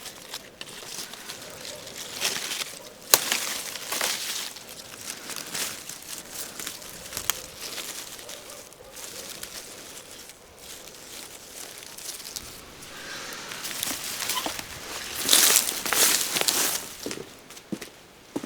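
Rustling and crinkling handling sounds, with a sharp click about three seconds in and the loudest rustling a little before the end.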